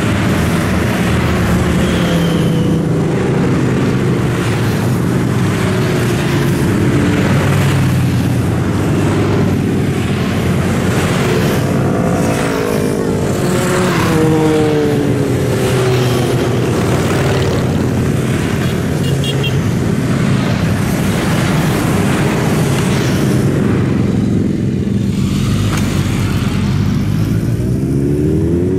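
Steady stream of motorcycles riding past on the road, many engines running together. Individual bikes rise and fall in pitch as they pass, most clearly around the middle and near the end.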